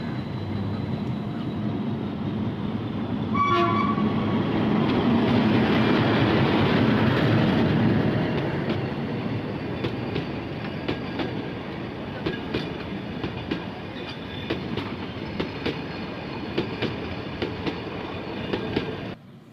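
Nilgiri Mountain Railway metre-gauge train running past close by behind a diesel locomotive. A short horn toot sounds about three and a half seconds in, and the rumble is loudest as the locomotive goes by. The coaches' wheels then click over the rail joints, and the sound cuts off abruptly near the end.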